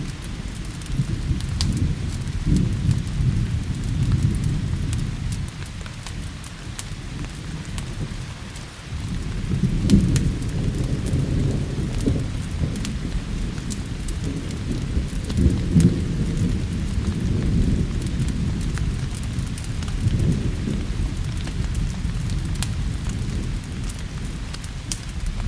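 Thunderstorm: rolling thunder rumbling low and swelling several times over steady rain, with scattered sharp clicks throughout.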